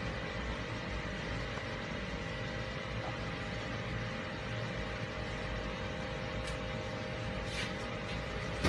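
Car engine idling as the car creeps slowly forward, a steady low rumble under an even hiss.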